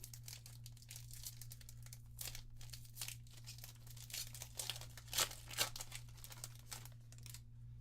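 Crinkling and rustling of a foil booster pack wrapper and trading cards being handled, a run of irregular crackles with two sharper ones a little past five seconds in, over a steady low electrical hum.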